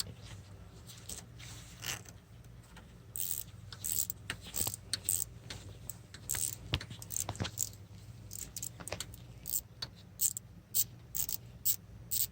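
Ratcheting wrench clicking in short runs, with light metallic clinks of small bolts and tools, as 8 mm bolts are backed off. Near the end the clicks come evenly, about three a second, over a low steady hum.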